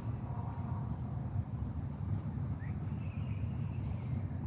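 Steady low outdoor rumble, with a faint short rising chirp a little past halfway.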